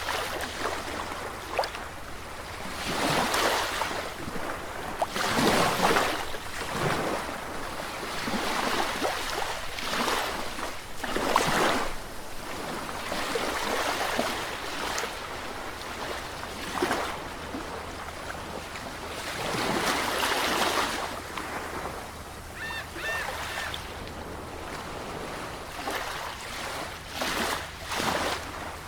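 Sea waves breaking and washing up the shore, surging and falling away every two to three seconds, with three short high chirps about three-quarters of the way through.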